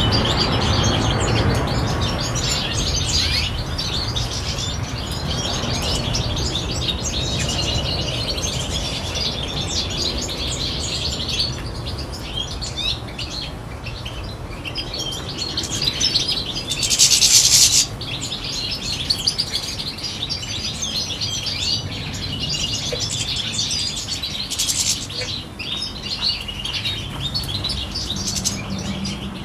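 Several European goldfinches chirping and twittering, many short calls overlapping. About halfway through there is a short, loud rush of noise lasting about a second.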